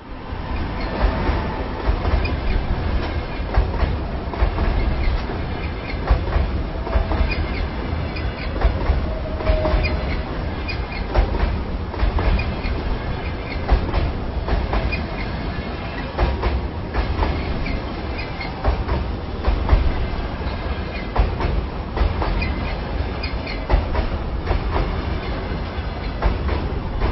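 Train crossing a bridge slowly: a steady low rumble with wheels clanking and clattering over the rail joints, and a couple of brief squeals from the wheels a few seconds in. It swells up right at the start, then holds loud throughout.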